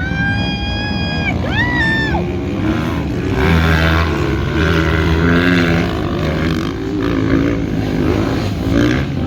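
Motocross dirt bike engines running on the track, rising and falling in pitch as the riders go through the gears. A high held tone rises and falls over the first two seconds.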